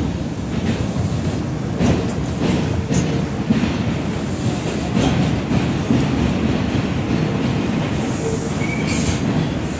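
Interior running noise of an R142 subway car: a steady low rumble of wheels on rail, with knocks over rail joints and short high-pitched wheel squeals near the end as the train pulls into a station.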